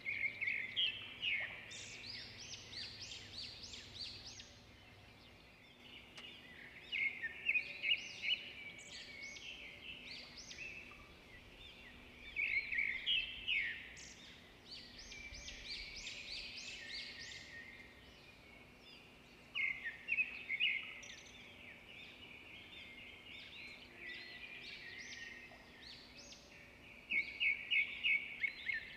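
A bird singing in short phrases of rapid chirps, one phrase every six or seven seconds, over a faint steady hum.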